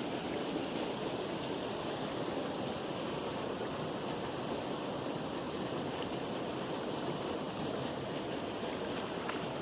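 Steady rushing of water pouring from a drain-pipe outlet and swirling in the pool below it.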